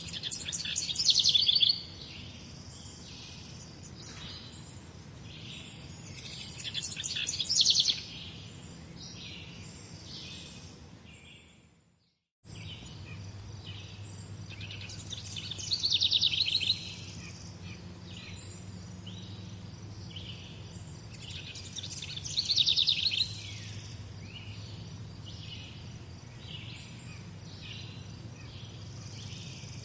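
Morning chorus of songbirds chirping, over a faint steady low hum. One nearby bird repeats a loud, rapid trilled song phrase four times, about every six to seven seconds. About twelve seconds in, all of the sound fades out briefly and cuts back in.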